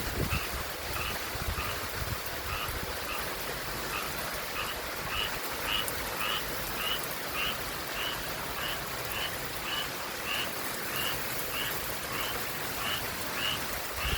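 A frog calling over and over, a short raspy note about twice a second, over a steady hiss of rain and wind.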